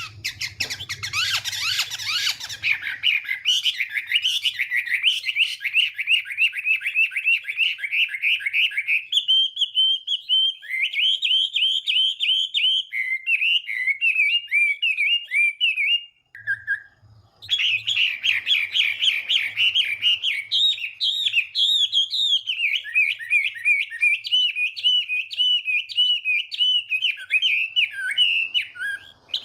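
Chinese hwamei singing a long, fast song of short, varied whistled notes, with a brief pause a little after the middle.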